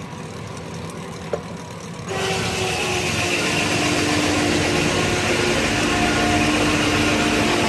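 Sawmill powered by a 1926 Keck Gonnerman steam traction engine, running with a low steady beat; about two seconds in, a much louder steady whining noise sets in and holds, as the saw cuts into a log.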